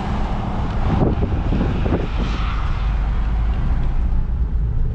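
Steady engine hum and road noise of a car being driven, with a few short knocks between about one and two seconds in.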